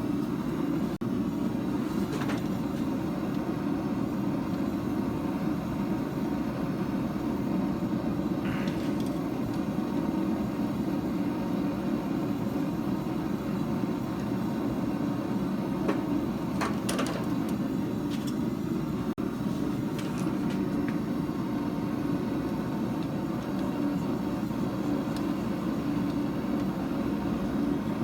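A steady low rushing drone, typical of a forge burner or blower running, with a few faint short clicks of metal.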